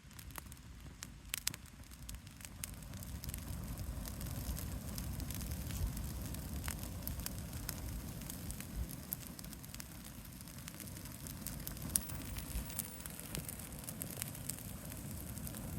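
Pine-wood bonfire burning: scattered sharp crackles and pops, the loudest about a second and a half in and again near twelve seconds, over a low rumbling noise.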